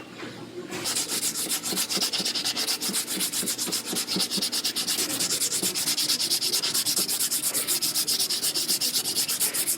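Hand sanding of auto body panel seams, rapid back-and-forth strokes of sandpaper on metal and filler, about six a second, starting about a second in and keeping up an even rhythm.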